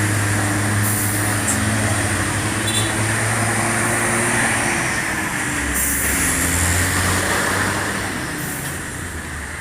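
Hino 500 dump truck's diesel engine pulling up a steep hill: a steady low drone whose pitch drops about six seconds in, fading slightly near the end.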